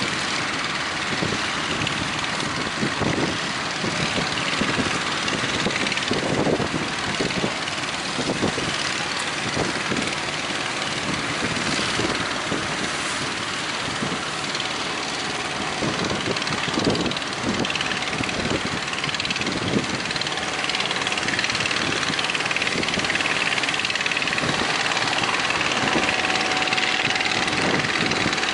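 Fishing-boat engines running steadily, mixed with a constant rush of strong wind.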